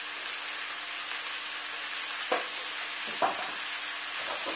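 Tofu and vegetables frying in a hot wok, a steady sizzle. A few light knocks come about two, three and four seconds in.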